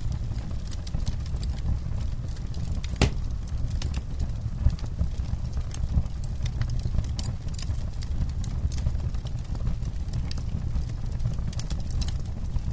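Campfire crackling: burning wood giving off irregular sharp pops and snaps over a low steady rumble of the flames, with one louder snap about three seconds in.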